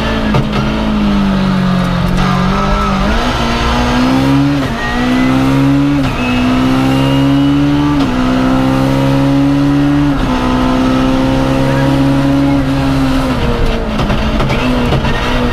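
BMW M3 E30 rally car's four-cylinder engine heard from inside the cabin, accelerating hard through the gears: the note climbs and drops back at each of four quick upshifts, holds high, then falls as the driver lifts off in the last few seconds.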